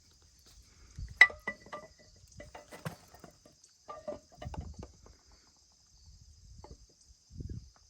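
Metal tools and parts clinking and knocking in irregular strokes, the loudest a sharp ringing clink about a second in, with a few dull thumps later on. A faint steady high-pitched chirr runs underneath.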